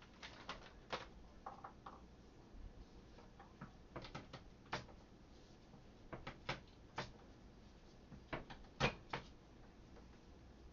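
Light knocks and clicks of kitchen items being handled, coming in small clusters of two to four, with the sharpest knock a little before the end.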